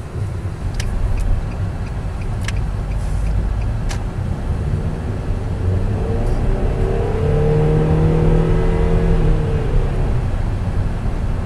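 Car being driven, with a steady low rumble of engine and road; the engine note rises as it accelerates from about six seconds in, then eases off after about nine seconds. A few sharp clicks come in the first few seconds.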